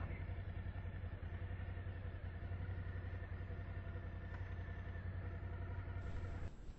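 Suzuki V-Strom's V-twin engine idling steadily, then switched off near the end.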